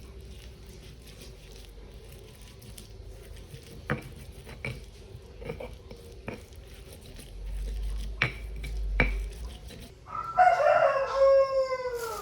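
A rooster crowing once near the end, one long call that falls in pitch. Before it, a few scattered light knocks and taps.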